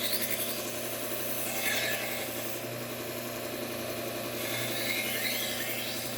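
Bucktool slow-speed belt grinder running with a steady hum as a knife blade is drawn across the abrasive belt. A scraping hiss rises and falls with each pass, twice.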